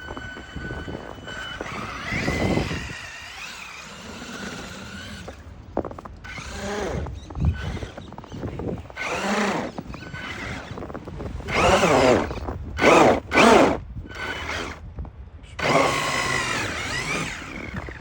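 Electric motor of a Traxxas RC car whining as it revs in repeated bursts, its pitch rising and falling, with the loudest three bursts in quick succession about two-thirds of the way through.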